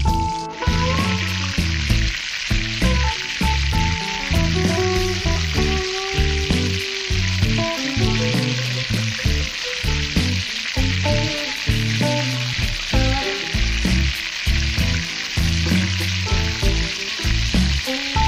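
Flour-coated chicken drumsticks deep-frying in hot oil in a wok, with a dense, steady sizzle that comes up abruptly about half a second in. Background music with a beat plays under it.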